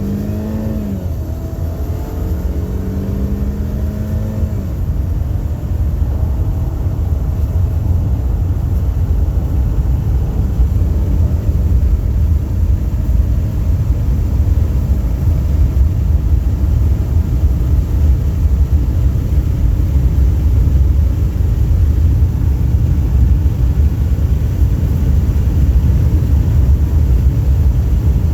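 A 2011 Chevy Malibu's 2.4-litre four-cylinder engine accelerating hard at full throttle. Its revs climb and drop back with upshifts in the first few seconds. After that a steady, loud rumble of engine, wind and road noise keeps building as the car climbs toward about 110 mph.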